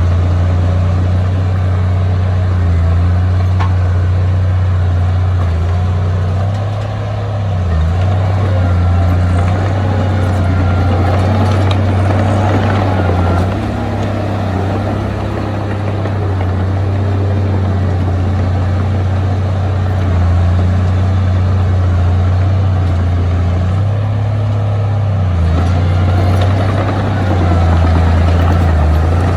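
Heavy diesel engine of earthmoving machinery running steadily with a deep drone, its pitch shifting slightly and dipping briefly a few times.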